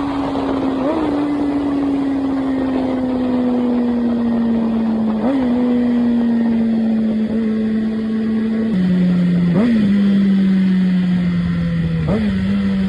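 Kawasaki Ninja ZX-6R inline-four running through a Competition Werkes aftermarket exhaust. Its pitch sinks slowly and steadily, broken by four short upward blips of the revs.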